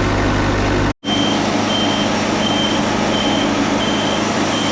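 Engine of a Wood-Mizer LT40 Super Hydraulic bandsaw mill running steadily. After an abrupt break about a second in, the mill runs on under a high electronic beep repeating about every 0.7 seconds.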